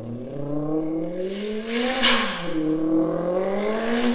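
Vocal imitation of a sports car engine revving up twice, the pitch climbing then falling back, each rise ending in a hissing turbo blow-off sound: once about two seconds in and again near the end.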